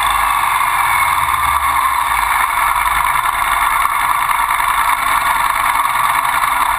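Ducati Sport 1000's air-cooled L-twin engine running low, near idle, as the motorcycle rolls slowly up to a stop, under a steady rushing noise.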